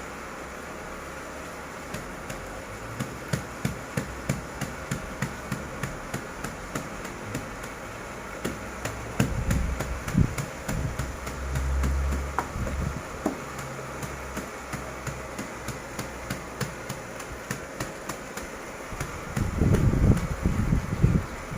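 Repeated sharp knocks, roughly three a second, with a few heavier thuds and low rumbles about ten seconds in and again near the end.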